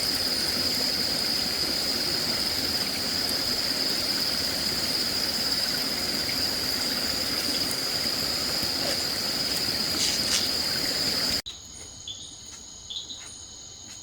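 Insects buzzing at one steady high pitch over a loud, steady rushing noise like running water. Near the end it cuts off suddenly to a quieter chorus of crickets at several pitches, with a few clicks.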